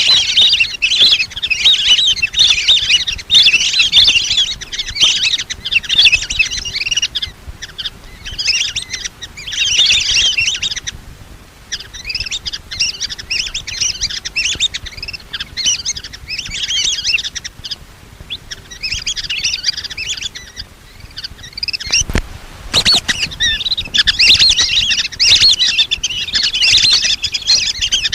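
A flock of lesser whistling ducks calling: dense, overlapping high whistled chirps that thin out briefly a few times. There is a single sharp knock about two-thirds of the way through.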